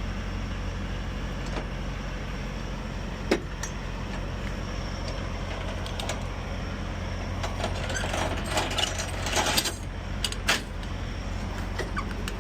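Diesel semi-truck engine idling steadily, with a sharp metal clank about three seconds in and a stretch of metallic rattling and clanking between about eight and ten seconds in.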